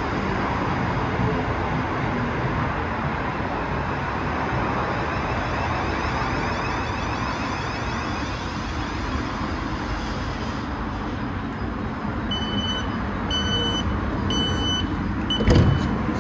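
Electric multiple-unit passenger train running into the platform and slowing to a stop, its rumble easing off. After it halts, a high door-warning beep sounds about once a second, and there is a loud thump near the end.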